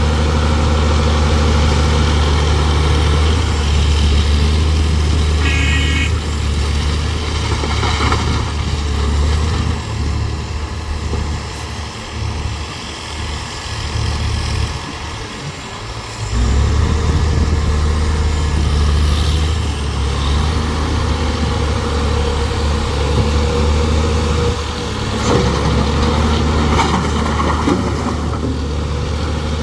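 Heavy excavator diesel engine running steadily under load. About halfway through, the engine note drops away for a few seconds, then picks up again. There is a brief high tone early on and a few knocks near the end.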